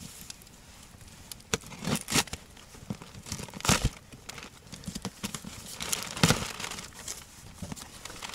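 Cardboard box being opened by hand: packaging crinkling and tearing in irregular rustles, with a few sharper crackles.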